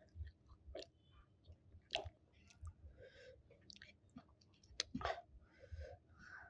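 Close-miked eating sounds: soft wet chewing of rice and chicken, broken by several sharp lip-smack clicks.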